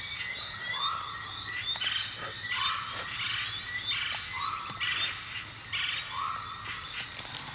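An animal calling over and over, about once a second, each call short and rising in pitch, against a steady high-pitched insect drone.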